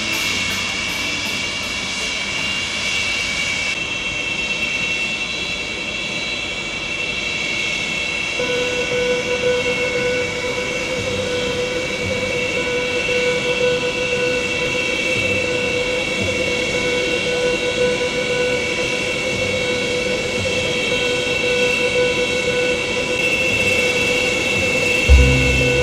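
Steady mechanical drone with several held tones over a noisy rumble. A stronger mid tone joins about eight seconds in, and a thump comes near the end.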